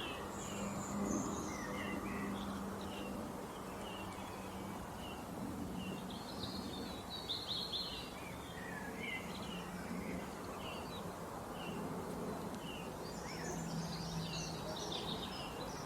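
Wild birds chirping and calling, many short high notes scattered throughout, over steady outdoor background noise with a faint low hum.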